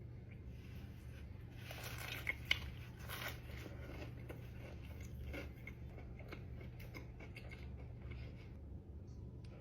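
Close-miked eating: irregular crunching bites and chewing, with two sharp crunches close together about two seconds in, over a steady low hum.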